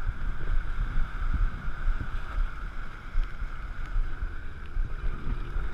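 Speedboat engine running steadily at speed while towing an inflatable tube, with wind rumbling on the microphone.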